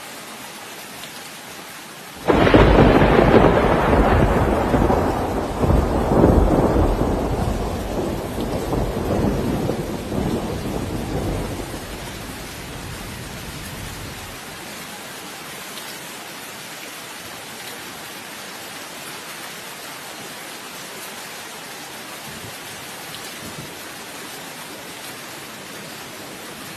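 Steady rain with a sudden clap of thunder a couple of seconds in, followed by a long rolling rumble that swells twice more before dying away. After that only the rain's hiss remains.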